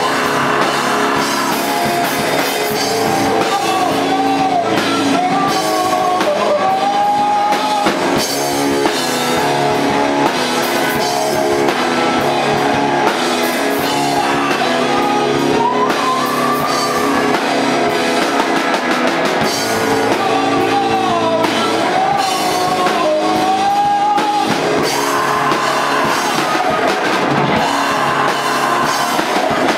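Rock band playing live: drum kit and electric guitar under a singing voice.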